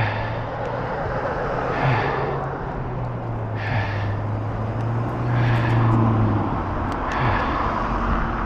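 Road noise from riding a bicycle near street traffic: a steady rushing haze with a low motor-vehicle hum that stops about seven seconds in, and soft hissing swells every couple of seconds.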